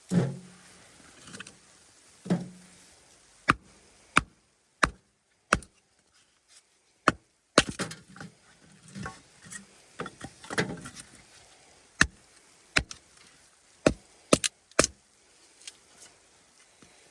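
A series of sharp knocks and cracks, about a dozen at irregular intervals, with a few duller thuds in the first couple of seconds.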